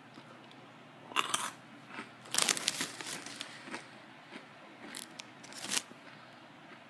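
A foil snack packet of Scampi Fries being handled, crinkling in a few short bursts, the longest about two and a half seconds in and the last near the end.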